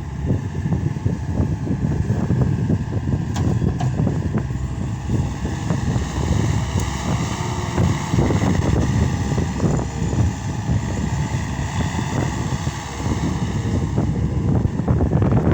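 Case SR200 skid steer loader's diesel engine running steadily under work, a low rumble with irregular knocks and clatter.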